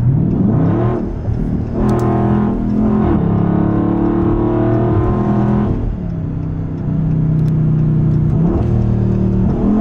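Car engine accelerating hard, heard from inside the cabin. Its pitch climbs and falls back at each gear change, with brief lulls about a second in and about six seconds in.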